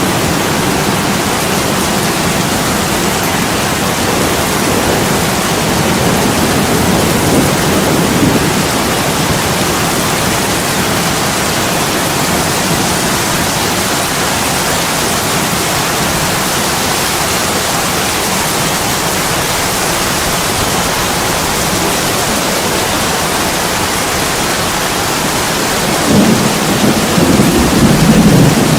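Heavy rain pouring steadily on an attic window, a constant dense hiss. Near the end a low rumble of thunder swells up and grows louder.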